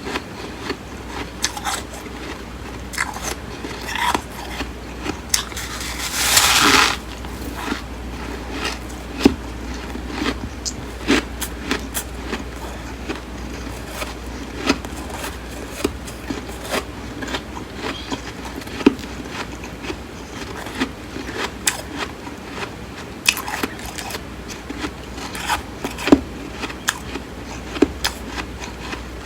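Close-up biting and chewing of flaky, crisp freezer frost: many short, sharp crunches scattered throughout, with one louder, longer crunch about six seconds in.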